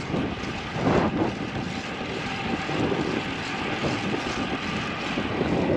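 Wind buffeting the microphone, with road and tyre noise from a bicycle riding at speed.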